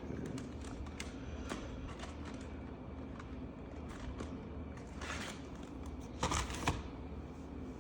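Coloring markers being handled and drawn on paper: small clicks and taps throughout, with two short scratchy bursts about five and six and a half seconds in, over a steady low hum.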